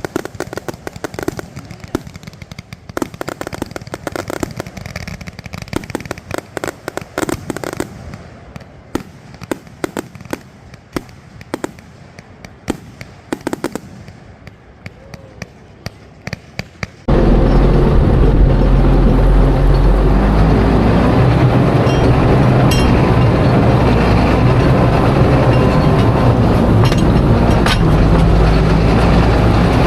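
Fireworks going off: sharp pops and bangs, some single and some in rapid crackling clusters. About seventeen seconds in, a sudden cut to a loud engine running steadily with a low drone.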